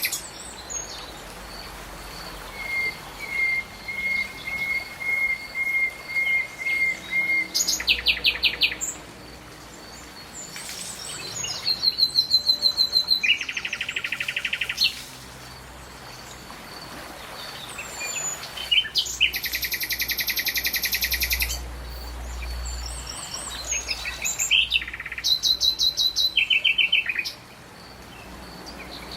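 Several birds singing and calling: a run of evenly spaced chirps, then short rapid trills that come again and again, over a steady outdoor hiss with a faint high steady tone beneath.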